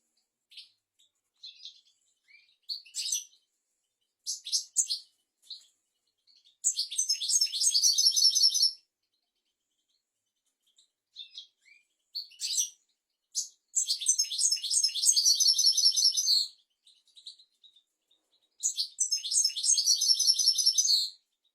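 European goldfinch singing: scattered short high chirps and three long, fast twittering song phrases of about two seconds each, separated by pauses.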